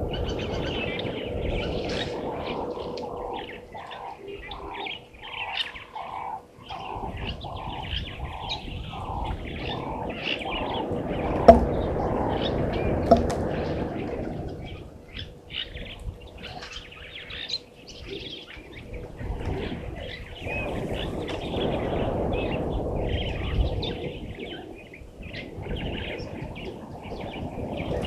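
Wild birds calling: one gives a long run of evenly repeated notes, about one and a half a second, through the first half, while others chirp higher over a low outdoor background. Two sharp clicks come a second and a half apart midway through.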